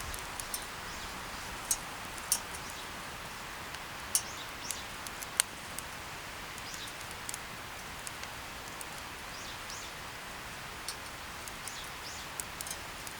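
Campfire crackling: irregular sharp pops and snaps over a steady hiss, a few of them louder, with faint bird chirps in the background.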